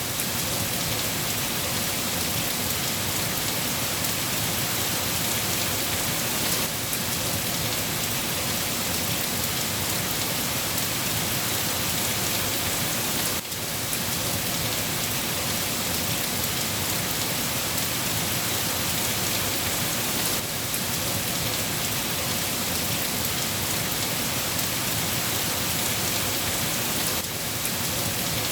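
Rain falling steadily, an even hiss of many drops on surfaces.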